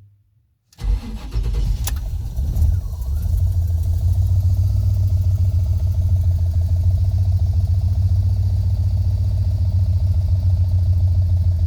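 Cold start of a 1986 GMC Sierra Classic K3500 pickup's fuel-injected engine: it fires abruptly about a second in, runs unevenly for a couple of seconds with a sharp click, then settles into a steady idle that the EFI holds on a cold engine.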